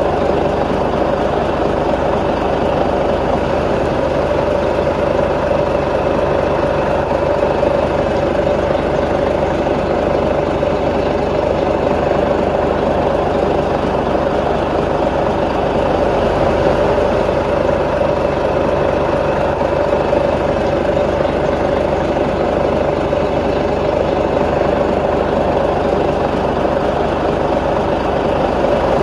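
Heavy diesel earth-moving machinery engine running steadily at a constant pitch.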